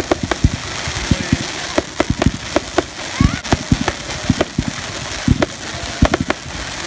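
Fireworks going off: an irregular run of bangs, several a second, over continuous crackling.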